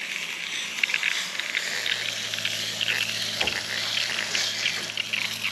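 Pump-up hand spray bottle spraying water onto an RV air conditioner's coil fins to rinse them: a steady crackling, spattering hiss.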